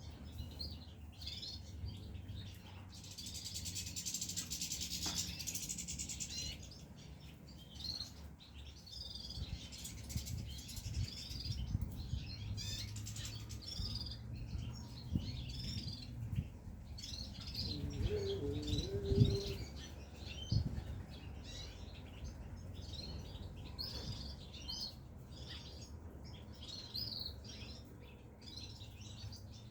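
European goldfinches chirping and twittering continuously, with a dense burst of twittering song a few seconds in. A few soft knocks come about two-thirds of the way through.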